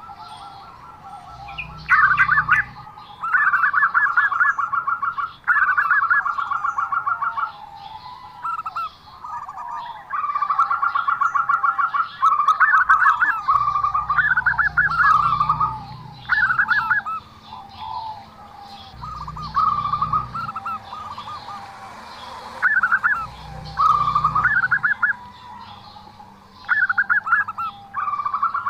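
Zebra dove (perkutut) singing: repeated short phrases of rapid, staccato pulsed notes, each lasting a second or two, coming again and again with brief pauses between.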